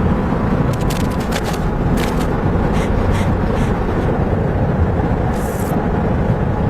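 Strong wind blowing steadily in a snowstorm, with a few brief clicks and scrapes scattered through it and a short hiss about five and a half seconds in.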